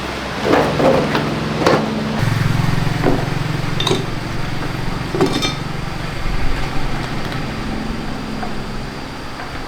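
A small engine starts running about two seconds in and keeps going with an even, low hum, with scattered metallic clinks and knocks of tools over it.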